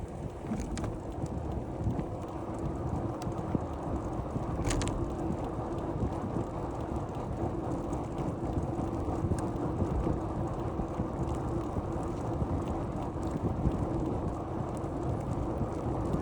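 Steady rumble of wind on the microphone and tyre and road noise from a bicycle being ridden, with a few light clicks and rattles, the clearest about five seconds in.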